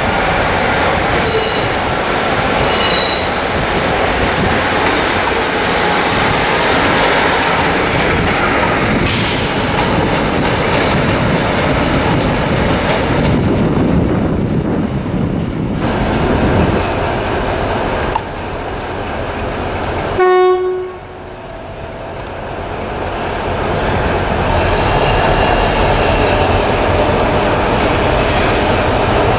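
Diesel trains at a station: a steady loud rumble with faint high wheel squeals early on. About two-thirds of the way through there is one short train horn blast. After it, a Colas Rail Class 60 diesel locomotive's engine grows steadily louder as it approaches.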